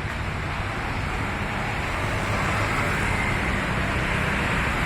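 Road traffic noise: a passing vehicle's engine and tyres, a steady rush that grows slightly louder.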